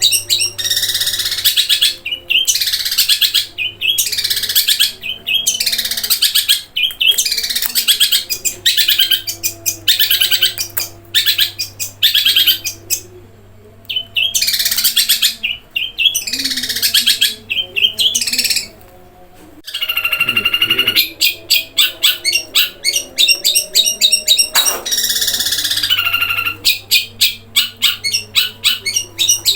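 Long-tailed shrike (cendet) singing in fast runs of high, scratchy chirps and trills. The runs break off briefly twice, and about two-thirds of the way through there is one long drawn-out call. A faint steady low hum lies underneath.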